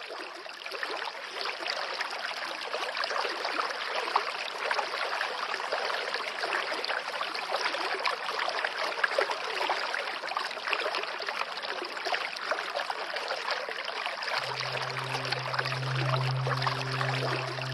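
A small stream of water running and trickling steadily. Near the end a low, steady musical drone fades in under it.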